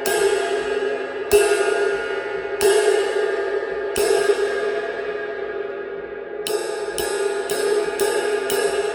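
Zildjian K Constantinople 22-inch medium ride cymbal struck four times about every second and a half, each stroke left to ring out into a long, slowly fading wash. From about two-thirds of the way through it is played in a steady ride pattern of about two strokes a second.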